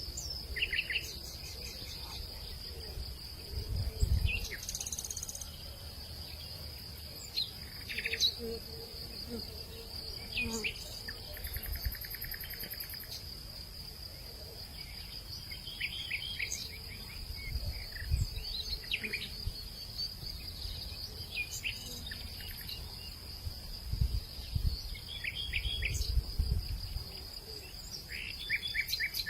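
Steady, high, pulsing insect trill with short bird chirps scattered through it. A few low gusts of wind rumble across the microphone, the loudest about four seconds in and again near the end.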